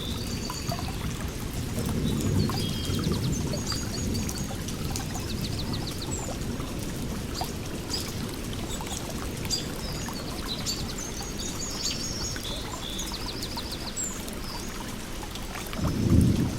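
Running water pouring and trickling steadily, with a brief louder gush near the end, while small birds chirp and sing short rapid trills over it.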